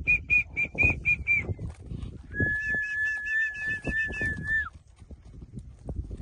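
A bird calling in a quick run of short high notes, about five a second. Then a long steady whistle is held for about two seconds with short chirps over it and drops away at the end, against low knocks and rustles.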